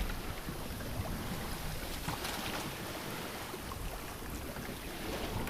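Sea water washing along a sailboat's hull under way, with wind on the microphone: a steady rushing noise with a few faint splashes in the middle.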